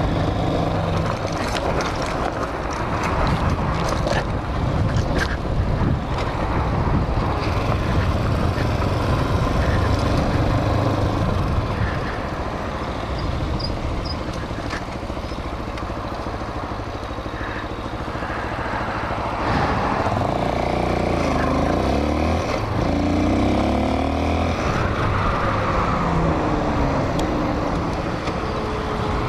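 Hawk 250 dual-sport motorcycle's single-cylinder engine running under way, with wind on the microphone. The engine is quieter for a stretch in the middle; about 20 seconds in it accelerates through the gears, its pitch rising in steps and dropping back with each shift.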